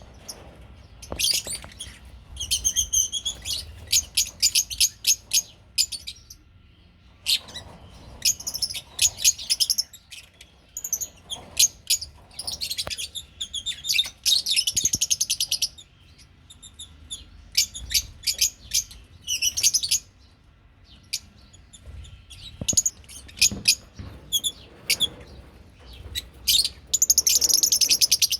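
Lovebirds chattering: quick runs of shrill, high-pitched chirps, starting and stopping again and again, with a dense, loud burst of calling near the end.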